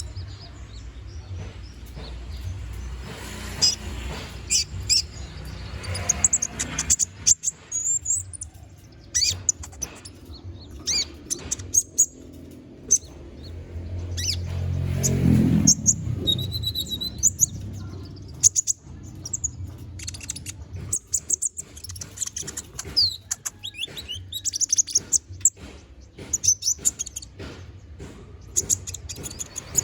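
Konin (kolibri ninja) sunbird singing continuously, a rapid stream of high, sharp chirps and trills mixed with varied phrases. A low rumble swells up about halfway through and fades.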